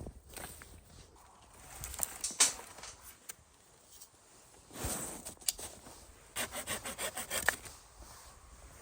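Hand saw cutting firewood in separate scraping strokes, with a quick run of short strokes in the second half.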